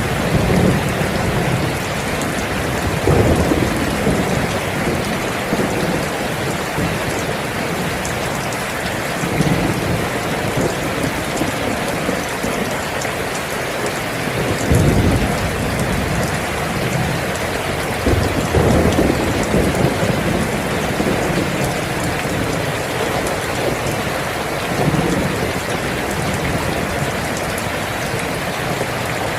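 Steady rain falling, with low rumbles of thunder swelling and fading several times.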